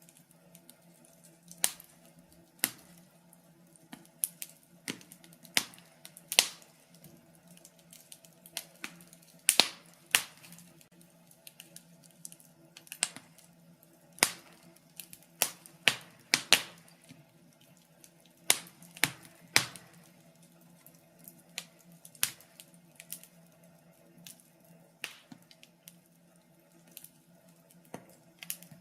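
Wood fire crackling in a fireplace: irregular sharp pops and snaps, a few louder ones among many small crackles, over a faint steady low hum.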